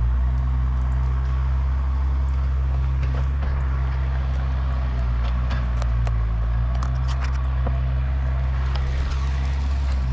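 An engine running steadily at constant speed, with scattered light clicks and rattles over it.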